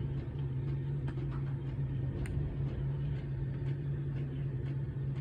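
Steady low mechanical hum of a running machine, with a few faint ticks over it.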